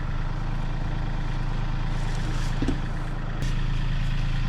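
A vehicle engine idling steadily, getting a little louder about three and a half seconds in.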